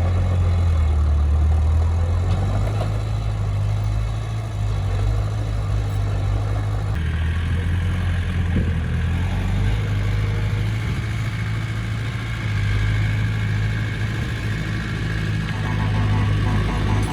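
Diesel engine of heavy construction machinery running steadily, with a change in its note about seven seconds in.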